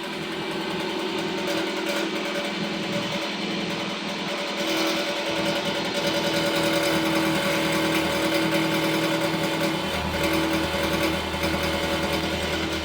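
Toyota Camry engine idling with a rapid metallic rattle from the exhaust; a low hum joins about ten seconds in. The rattle comes from a loose, rusted plate inside the exhaust resonator vibrating.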